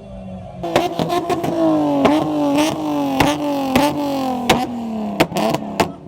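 Car engine running with its pitch slowly falling, broken by a dozen or so sharp pops or knocks at uneven intervals.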